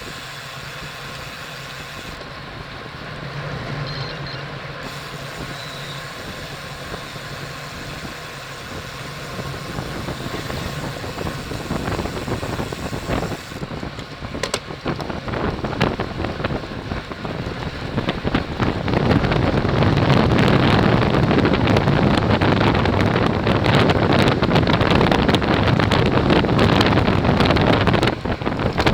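Wind rushing over the camera microphone on a racing bicycle ridden at speed, with tyre and road noise underneath. It grows louder about halfway through and stays loud for the last ten seconds or so.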